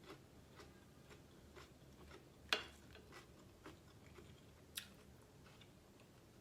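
Faint chewing of seafood-boil food, with a sharp click about two and a half seconds in and a smaller one a couple of seconds later.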